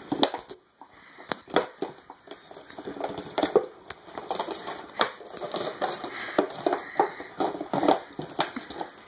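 Irregular light clicking and tapping, a few taps a second: a puppy's claws on a hard floor and a plastic water bottle knocking about.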